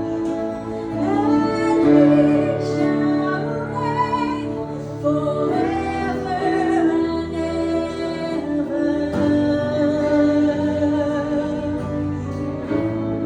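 Live acoustic worship music: a sung melody with long held notes over instrumental accompaniment.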